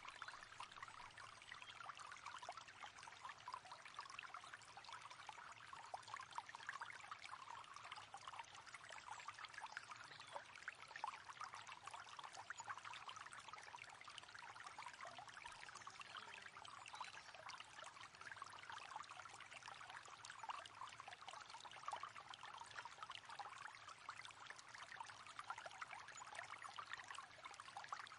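Faint, steady babbling and trickling of a river flowing over stones, an unbroken rush of water with many small splashes.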